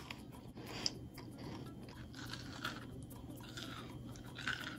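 A person chewing a mouthful of fried meat pie, quietly, with irregular small crunches and mouth clicks from the pastry crust.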